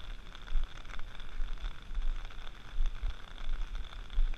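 Steady rain falling, a pattering hiss of many small drop ticks, with irregular low thuds underneath.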